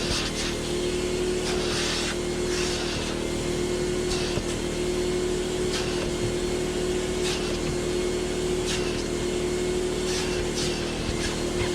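Air mover blower fan running steadily with a constant hum, drying freshly shampooed cloth car seats. A few brief hissy swishes come and go over it.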